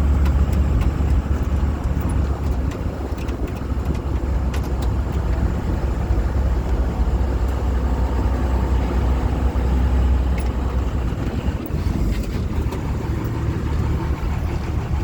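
Engine of an amphibious duck boat running steadily with a low rumble, heard from aboard while the vehicle is under way.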